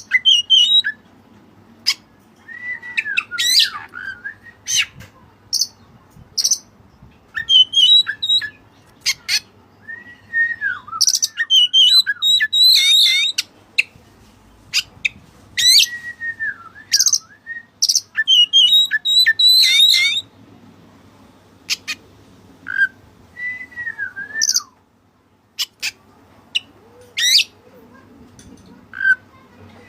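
White-breasted Oriental magpie-robin (kacer) singing loudly in repeated bursts of curving whistles, sharp clicks and high trills with short pauses between. Its song carries phrases learned from the cililin.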